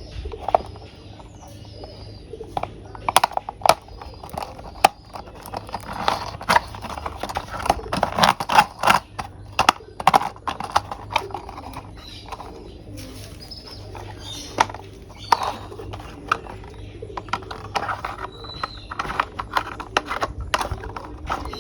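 Plastic toy vehicle parts clicking and knocking as they are handled and snapped together, in irregular runs of sharp clicks.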